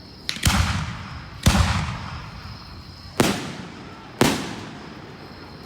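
Fireworks display: four aerial shell bursts in two pairs about a second apart, each a sharp bang with a rumbling tail that dies away over about a second.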